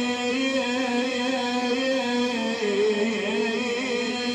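Male reciter chanting a Husayni mourning lament: one long wordless wavering sung line over a steady held tone beneath.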